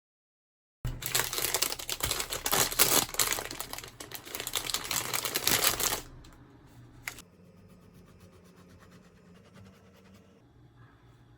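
Crinkling and rustling, like packaging or paper being handled, for about five seconds, then a much quieter stretch with a single sharp click.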